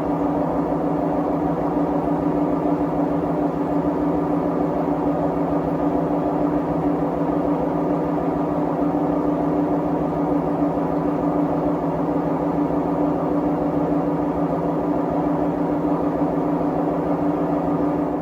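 Siemens WM14T490 front-loading washing machine with its drum turning at a steady speed, giving a loud, unbroken drone with a strong steady hum. The noise comes from a damaged drum bearing.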